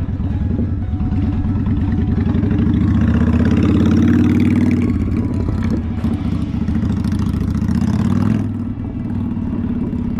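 A motor vehicle's engine running close by, its pulsing note swelling about halfway through, then dropping away sharply near the end.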